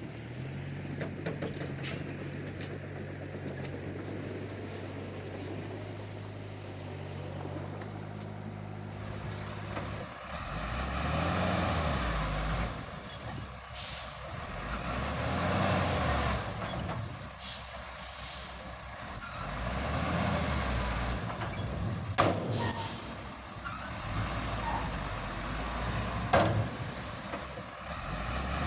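Komatsu D31P crawler bulldozer's diesel engine working, steady at first, then from about ten seconds in revving up and easing off about every four seconds with a high whine rising and falling as it pushes its load, with a few sharp metallic clanks.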